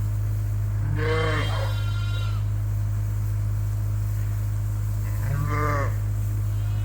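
Sheep bleating twice with a quavering call, once about a second in and again after about five seconds, over a steady low hum.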